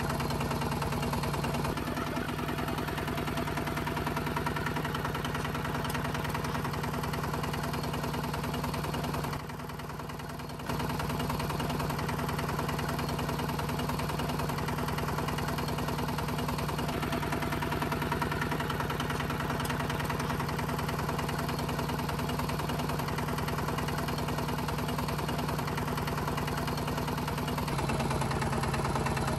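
A small motor running steadily with a continuous hum. The hum drops briefly and goes quieter about ten seconds in, then picks up again.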